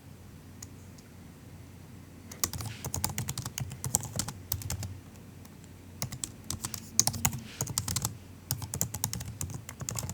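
Soft typing on a MacBook's built-in laptop keyboard: two quick runs of keystrokes with a short pause between, starting about two seconds in.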